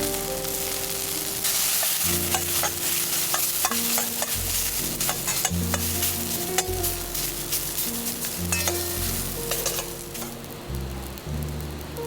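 Fried rice sizzling in a frying pan as it is stir-fried, with frequent sharp clicks and scrapes of a metal ladle against the pan. Background music with a held bass line plays underneath.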